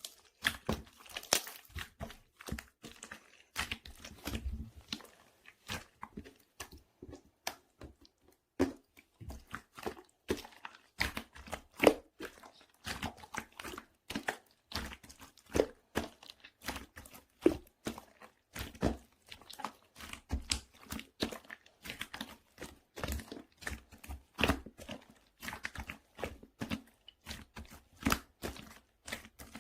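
Croissant-style slime being squeezed, stretched and folded by hand, giving a dense run of irregular crackles, pops and small squishes.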